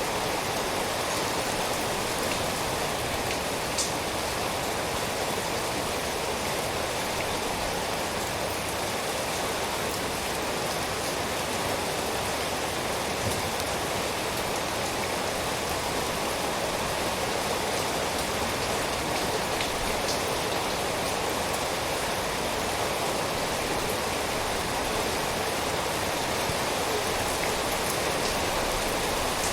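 Steady rainfall, an even hiss of rain with occasional single drops ticking out of it.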